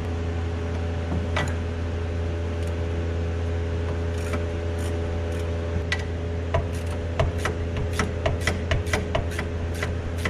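A Yanmar excavator's diesel engine idling steadily, while a ratchet wrench clicks as a travel-limiting stop bolt on the blade control linkage is turned down. There are a few single clicks at first, then a quick run of about three to four clicks a second from about halfway through.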